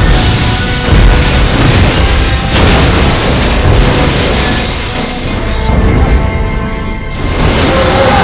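Loud dramatic film score mixed with booming explosions and things shattering, a dense rumble heaviest in the lows.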